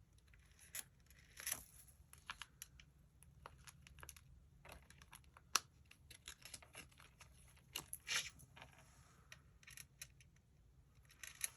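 Faint scattered clicks and short rustles of small paper pieces being handled with tweezers and pressed down on card.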